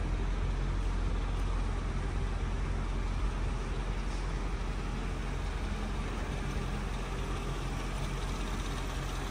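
Mercedes C43 AMG's 4.3-litre V8 idling steadily, an even low hum that does not change.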